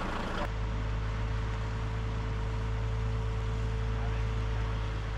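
A heavy truck's diesel engine running at a steady low drone.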